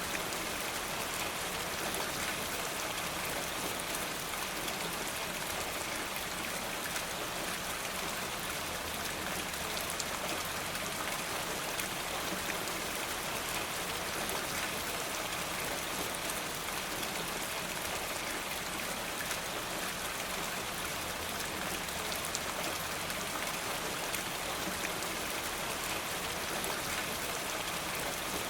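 Steady rain falling, an even hiss dotted with many fine drip ticks, with no change in strength.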